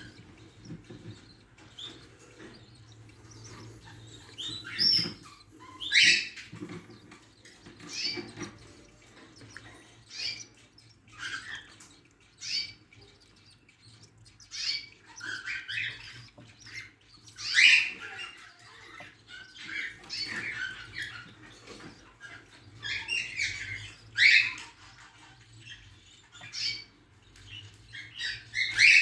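Budgerigars calling in a cage: short chirps and harsh squawks that come irregularly every second or two.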